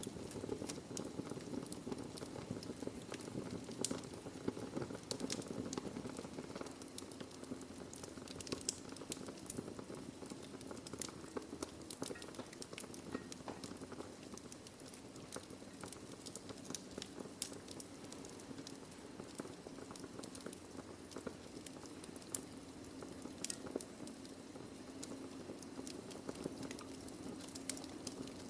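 Wood fire burning in a fireplace: many small crackles and pops from the logs over a steady low rumble of the flames.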